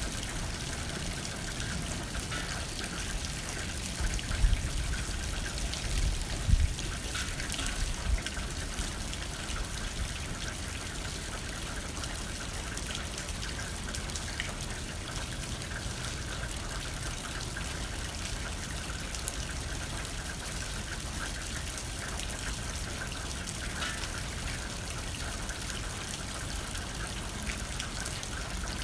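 Steady rain hitting a window, with blowing wind that surges low a few times in the first eight seconds or so.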